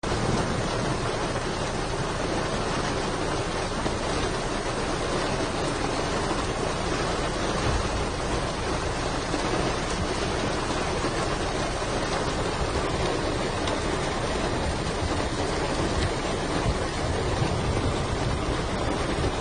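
Heavy downpour during a hailstorm: a dense, even hiss of falling precipitation that holds steady without a break.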